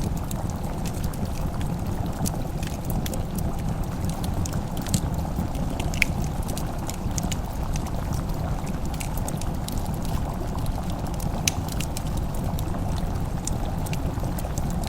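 Wood fire crackling in a fireplace: scattered sharp pops and snaps over a steady low rushing noise, with a few louder pops.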